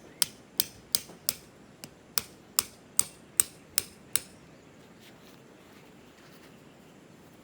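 A series of about a dozen sharp knocks at an even pace of two to three a second, with one softer knock and a brief hitch near the middle, stopping about four seconds in.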